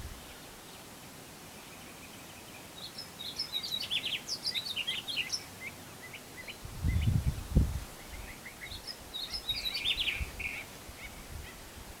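A songbird sings two bursts of quick, jumbled high notes, one about three seconds in and another about nine seconds in, over a faint steady outdoor hiss. Between them, about seven seconds in, comes a brief low rumble that is the loudest sound in the stretch.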